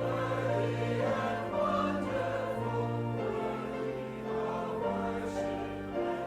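Congregation and choir singing a hymn with organ or instrumental accompaniment, slow held notes and chords.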